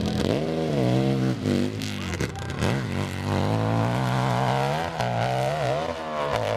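Motorcycle engine revving hard, its pitch swinging up and down several times with the throttle, sharply cut back a couple of times, then held steady for a couple of seconds before wavering again.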